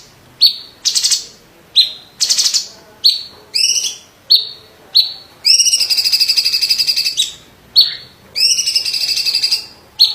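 Cucak ijo (green leafbird) of the cungkok type singing a rapid series of sharp whistled notes, some sweeping in pitch, mixed with buzzy rattling trills. Two longer trills come about halfway through and near the end.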